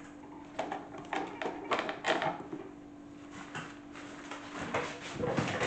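A salad spinner converted into a toy washing machine runs with a steady motor hum, its plastic drum rattling and knocking irregularly as it shakes and rocks.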